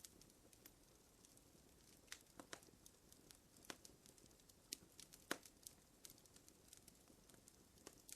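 Fire crackling softly: irregular sharp pops and snaps, several a second, over a faint low hiss, with the loudest pop about five seconds in.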